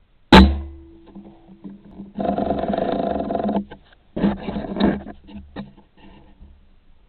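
Air rifle shot: a single sharp crack about a third of a second in, followed by a short ringing hum. Two rough, buzzing bursts follow, the first about a second and a half long and the second under a second.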